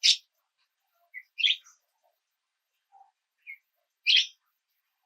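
A small songbird calling in short, high chirps: a soft note, then a louder buzzy call, three times about two seconds apart, with a few faint lower notes in between.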